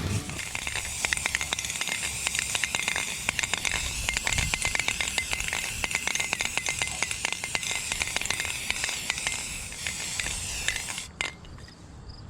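Aerosol can of sandable primer spraying: a steady hiss with a fast crackle running through it, which cuts off suddenly near the end.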